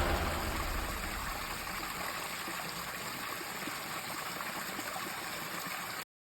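Steady rushing of a flowing stream, with music fading out over the first second; the sound cuts off abruptly about six seconds in.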